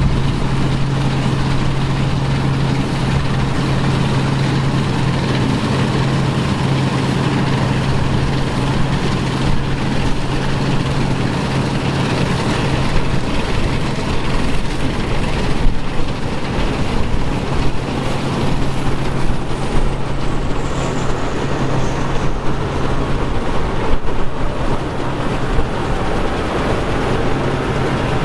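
Vintage farm machinery engine running steadily under load, a constant low hum over mechanical noise.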